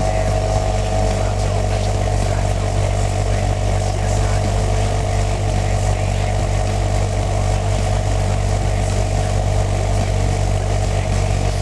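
Exhaust note of a Suzuki Wagon R Stingray (MH23S) through an aftermarket ROSSO MODELO Ti-C muffler, its 660 cc three-cylinder engine idling steadily with no revving.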